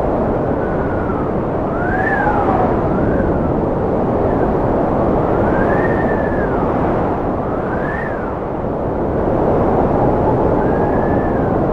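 Strong cold wind blowing steadily, with a whistling howl that rises and falls in pitch every second or two.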